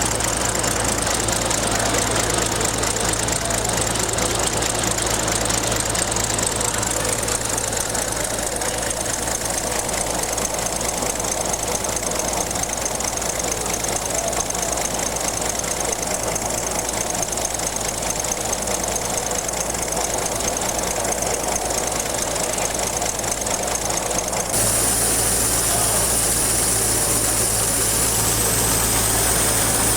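A small model engine running steadily, with a fast, even knocking beat. The sound changes abruptly about three-quarters of the way through, as another running engine takes over.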